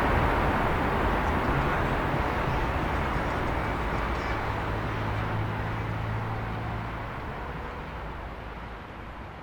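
City traffic ambience: a steady wash of distant traffic noise, with a low engine drone for a couple of seconds in the middle, fading out steadily.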